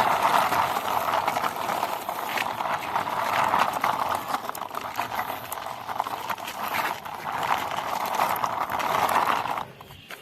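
Plastic wheels of a toy motorbike rolling and scraping along a rough wall, a steady gritty rattle full of small clicks that stops abruptly near the end.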